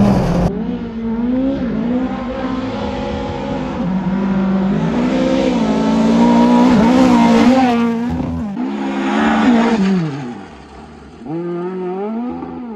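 Volvo 240 rally car's engine being driven hard on a gravel stage, revs climbing and dropping repeatedly through gear changes, with tyre noise. About ten seconds in the revs fall away briefly, then pick up again.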